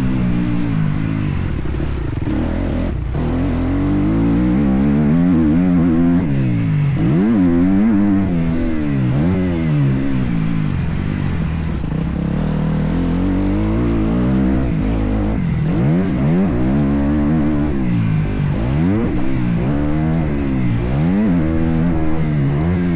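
Motocross bike's engine revving up and down over and over as it is ridden around a track, its pitch climbing and dropping every second or two.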